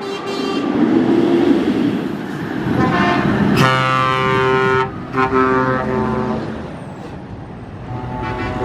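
Trucks in a convoy passing and sounding their horns: a short toot at the start, a shorter one near 3 seconds in, then a long, loud horn blast and a second blast after a brief gap, with engine and road noise between them that fades toward the end.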